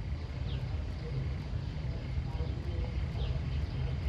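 Outdoor rural ambience dominated by a steady low rumble, like wind on the microphone, with a bird giving a short falling call twice, about half a second in and again about three seconds in.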